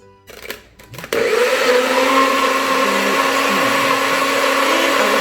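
NutriBullet blender: a few clicks and knocks, then about a second in the motor starts abruptly and runs steadily at full speed, pureeing tomatoes and chipotle peppers into a sauce.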